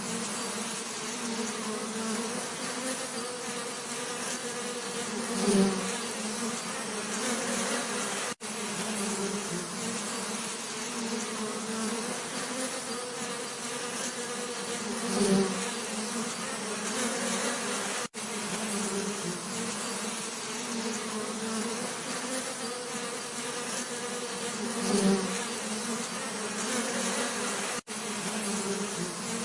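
Many bees buzzing in a steady, dense hum. Roughly every ten seconds one bee passes close and the buzz briefly swells louder. Three times the sound drops out for an instant.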